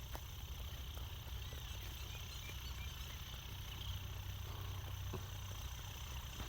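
Kubota M6240 tractor's diesel engine running steadily with a low rumble as it rotary-tills a wet paddy field.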